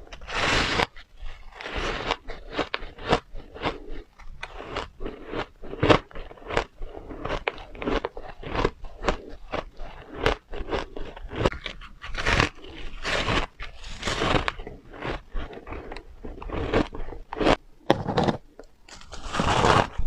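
Close-up biting and chewing of refrozen powdery ice: a fast, irregular run of soft crunches, with louder bursts of bigger bites now and then.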